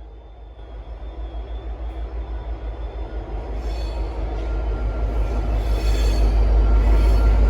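V/Line N class diesel-electric locomotive running, its deep engine rumble growing steadily louder as it approaches, with a regular pulsing beat.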